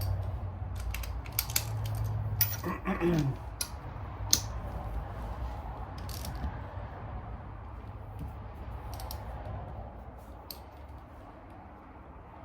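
Hand tools clinking against metal engine parts during an engine teardown: scattered sharp metallic clicks, most of them in the first few seconds, then a few more spread out.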